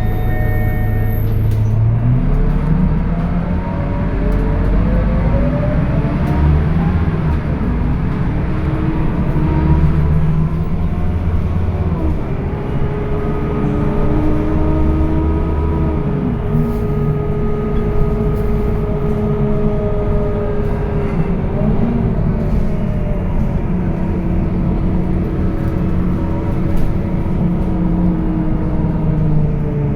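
Scania K230UB city bus's diesel engine and ZF automatic gearbox heard from on board as the bus pulls away and accelerates, the engine note climbing through the gears with a drop in pitch at each shift, the clearest about halfway through. A steady high tone stops about a second in.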